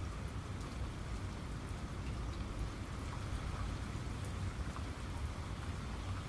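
Steady rain, with scattered individual drops ticking over a constant low rumble.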